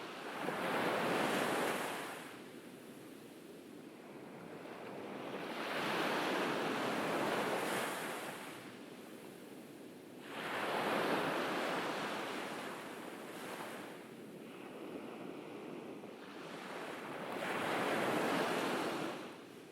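Ocean waves breaking and washing up a beach, four swells of surf that build and fade between calmer lulls.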